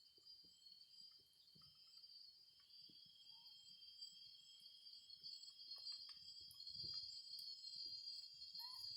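Faint, steady high-pitched insect chorus, such as crickets, with a few soft clicks and knocks.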